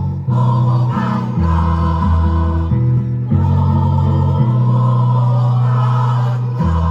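A choir singing a song, with held chords that change every second or so.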